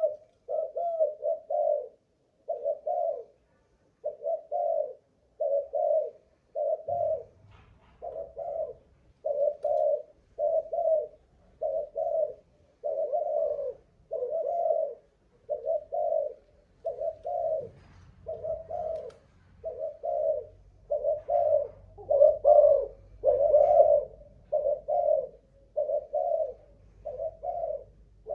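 Spotted dove of the Malaysian cooing strain cooing without a break: a long run of short, low coo notes at about one a second.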